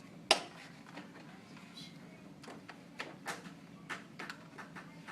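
A single sharp click, then a scattered run of fainter clicks and taps over a faint steady room hum.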